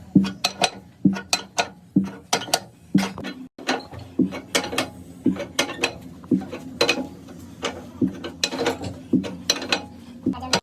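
Repeated sharp mechanical knocks, about two a second at first, then in quicker, uneven clusters.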